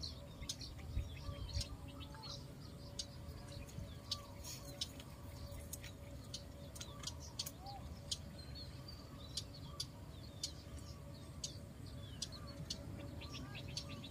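Birds chirping faintly in short, scattered high chirps, over a faint steady hum.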